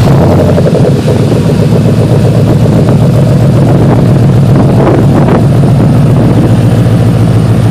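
2013 Ford Mustang GT's 5.0 V8 idling steadily and loudly through Flowmaster Outlaw mufflers, a near-straight-through aftermarket exhaust with the stock catalytic converters still fitted. The engine sound comes in abruptly at the start and then holds an even pitch.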